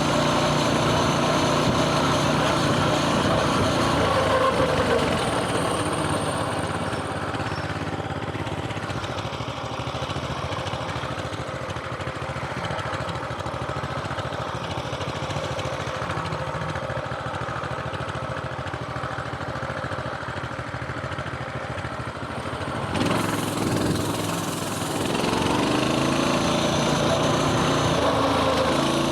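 Coleman mini bike's small single-cylinder engine running while riding. It is louder at first, eases to a quieter, lower run through the middle, and picks up again near the end.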